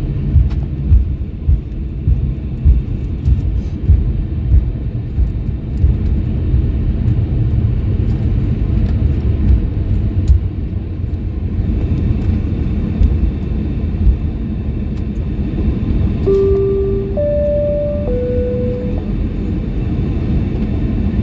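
Low rumble inside an Airbus A321 cabin on the ground after landing, with a run of regular thumps over the first few seconds. About three-quarters through, a three-note cabin chime sounds over the speakers, going low, high, then middle.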